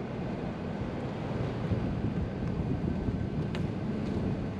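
Golf cart running along at a steady pace, a low rumble with wind buffeting the microphone.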